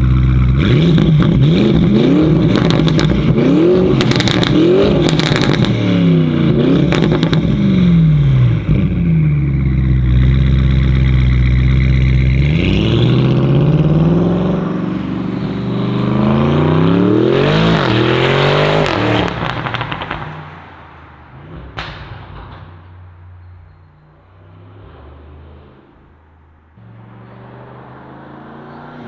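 Audi RS6 C8's twin-turbo 4.0 V8, tuned to 1010 hp with a BTM Turbo exhaust, pulling hard with its pitch climbing and breaking off at each upshift, with sharp cracks in the first few seconds. The pitch falls and climbs again twice, then the sound drops away sharply about twenty seconds in, leaving a quieter engine sound that begins to rise near the end.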